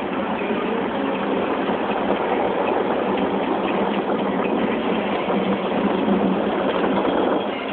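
Automatic car wash jets spraying water onto the car, a steady loud rush heard from inside the cabin; it drops in level shortly before the end.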